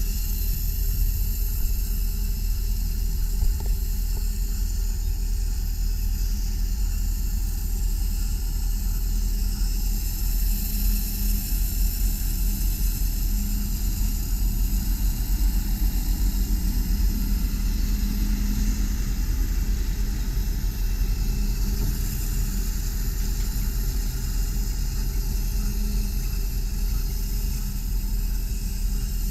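2001 GMC Sierra 3500 HD bucket truck's engine running at a steady idle while the hydraulic boom is operated, with a low rumble throughout.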